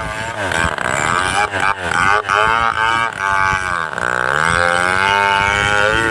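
Two-stroke chainsaw running at high speed while cutting the tree, its pitch wavering with the load and sagging then climbing back about four seconds in.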